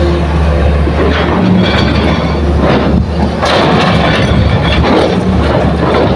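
Hitachi excavator's diesel engine running steadily under load, with several heavy rumbling thuds of soil and rock being loaded into a dump truck.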